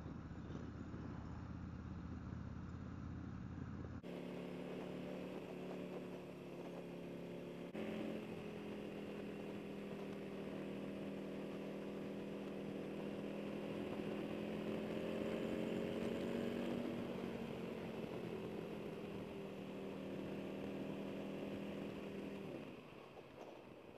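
Harley-Davidson Road King Special's Milwaukee-Eight 114 V-twin, breathing through Vance & Hines slip-on mufflers, running under way at steady road speed over wind and road noise. The engine note rises a little mid-way and drops away near the end as the throttle is rolled off.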